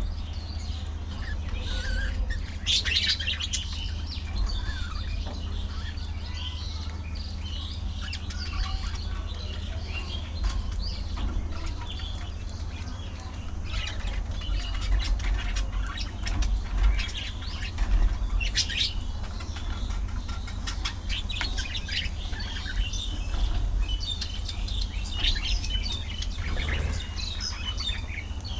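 A flock of budgerigars chattering with many rapid, overlapping chirps and warbles, over a steady low rumble.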